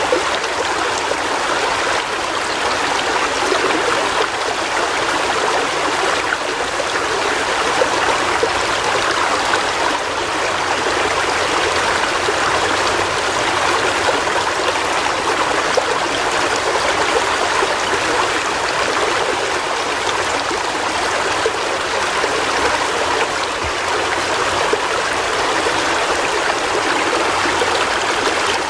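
River water flowing over rocks: a steady rushing and babbling with no breaks.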